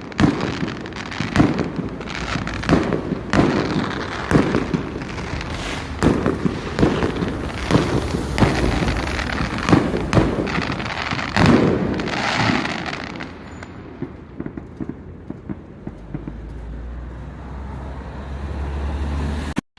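Fireworks going off in quick succession: many sharp bangs with crackling between them, thinning out about fourteen seconds in, after which a low steady rumble is the loudest thing until an abrupt cut.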